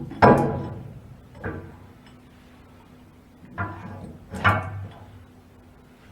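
Metal tools and hardware being handled: a few sharp knocks and clinks with a brief metallic ring, the loudest just after the start and a pair about four seconds in, over a faint steady hum.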